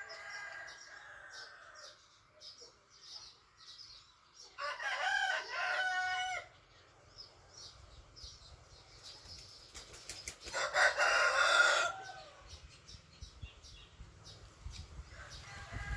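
Chickens on a farm: a rooster crows about four and a half seconds in, and a second, louder call of about two seconds comes near eleven seconds, with quieter clucks and small chirps in between.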